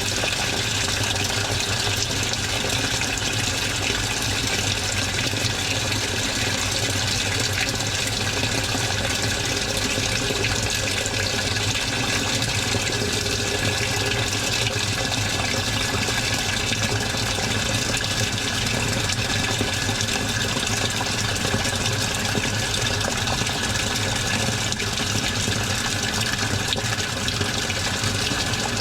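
Washing machine running with a steady rush of water in the drum over a constant low hum, unchanging throughout.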